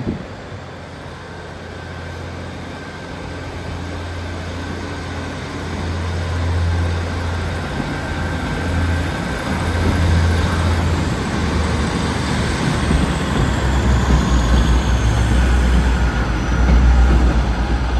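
Class 156 Sprinter diesel multiple unit pulling away under power, its diesel engine giving a low steady throb that grows steadily louder.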